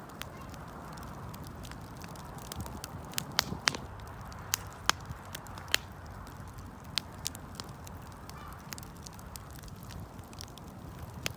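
Wood campfire crackling: sharp pops and snaps at irregular intervals over a steady low hiss of burning.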